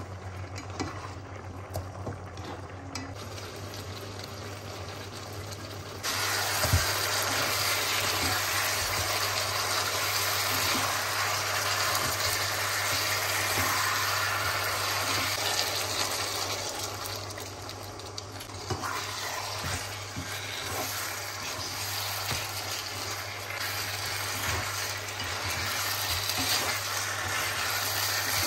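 Chicken simmering and sizzling in sauce in a nonstick wok, stirred with a spatula that scrapes and taps the pan. The sizzle jumps suddenly louder about six seconds in and eases a little a few seconds before the end, over a steady low hum.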